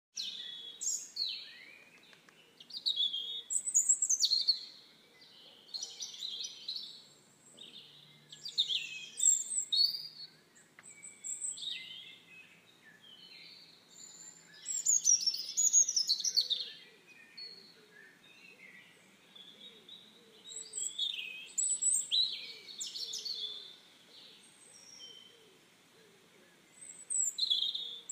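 Several songbirds singing at once: overlapping high chirps, quick trills and short falling notes, coming in bursts with brief lulls between.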